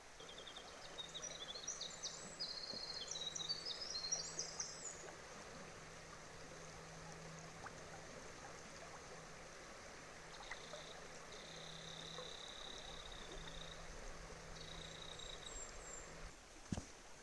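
Faint outdoor ambience: a steady rushing hiss like a stream, with quick high chirping song over the first few seconds and a long, even high trill in the middle.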